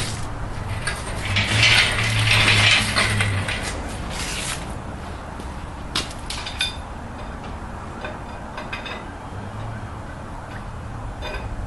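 Engine hoist and chain at work lifting the engine and transaxle out, with metallic clicking and rattling. A louder scraping, grinding stretch comes in the first few seconds, and a low hum comes and goes.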